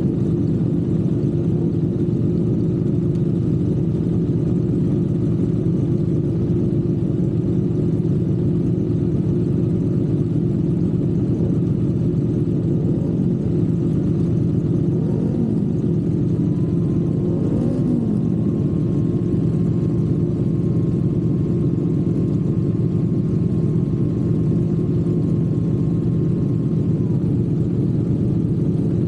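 Triumph parallel-twin motorcycle engine running steadily with an even exhaust note. Two brief wavers in pitch come midway, and a faint steady whine joins about halfway through for around ten seconds.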